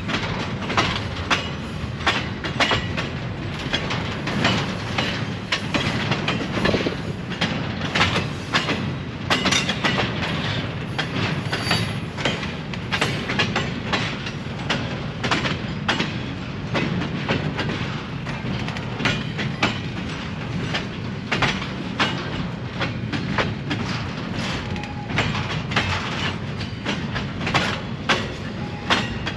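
Train rolling past, its wheels clicking and clacking irregularly over the rails above a steady low rumble.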